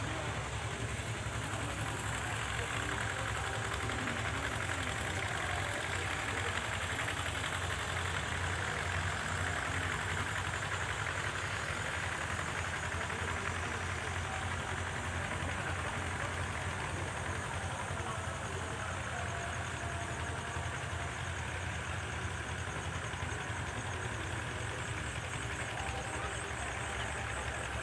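An engine running steadily at idle, with an even low throb that does not change.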